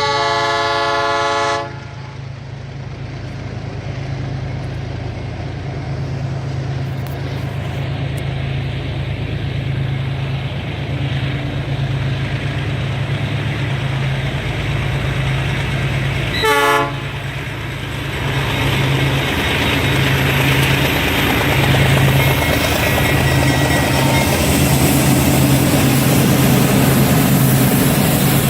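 Diesel locomotives of a heavy ore train: a horn blast about a second and a half long at the start, then the engines running with a steady low drone. A second short horn blast comes about halfway through, and the noise of the passing train grows louder toward the end.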